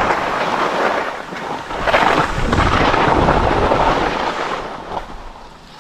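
Wind rushing over the microphone and skis scraping across packed snow during a downhill run, swelling louder in the middle and easing off near the end as the skier slows.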